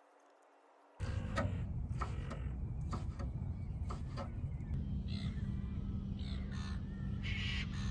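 About a second in, a steady low rumble begins, with a few sharp knocks. In the second half a bird gives several short, harsh calls.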